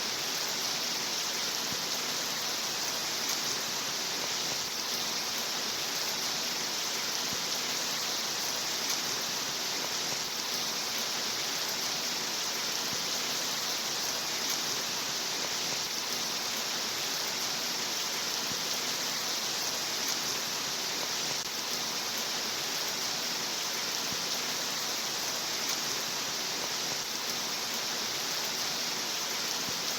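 Steady recorded rain: an even, unbroken hiss with no single drops or other events standing out.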